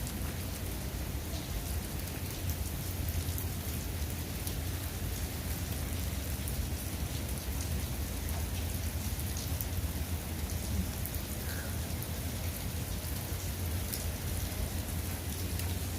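Steady rain falling, with scattered drop ticks.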